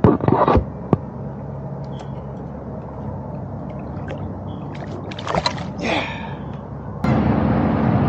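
Kayak-side sounds: a few sharp knocks on the hull, then water splashing and gurgling about five seconds in. About seven seconds in, a steady, louder engine-like hum suddenly takes over.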